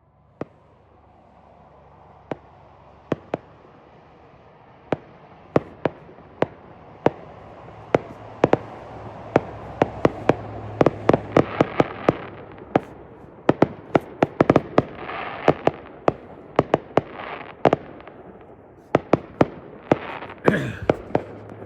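Fireworks going off: a few single sharp bangs at first, then building into a rapid barrage of bursts with a crackling hiss between them, with another cluster of bangs near the end.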